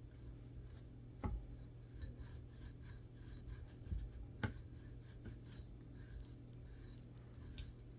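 Quiet handwork on a tumbler being coated in epoxy: light rubbing and small handling noises, with two sharp taps about one and four and a half seconds in, over a steady low hum.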